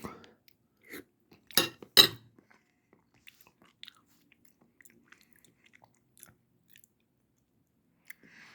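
A child taking a bite of mashed potatoes and gravy and chewing close to the microphone, with a few short sharp clicks in the first two seconds, the loudest about two seconds in, then faint, scattered chewing sounds.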